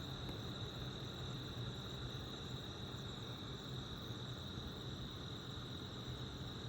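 Crickets trilling in a steady, unbroken night chorus at a high pitch, with a low steady hum underneath.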